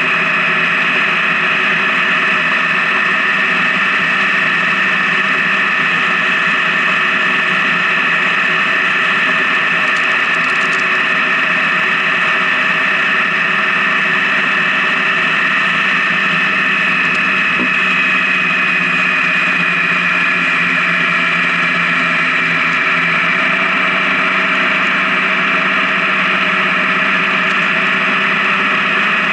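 Honda Gold Wing touring motorcycle running at a steady cruise, engine and road noise holding an even pitch with a slight dip about two-thirds of the way through.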